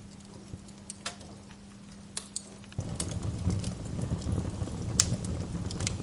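Wood fire crackling, with scattered sharp pops, the sharpest about five seconds in. Under it a faint low hum gives way abruptly, a little under three seconds in, to a louder low rumble that continues.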